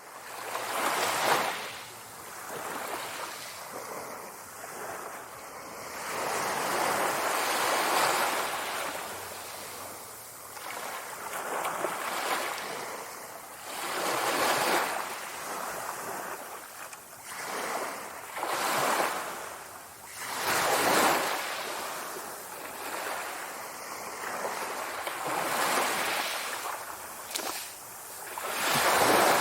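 Sea waves breaking on the shore: a rush of surf that swells and fades every two to four seconds.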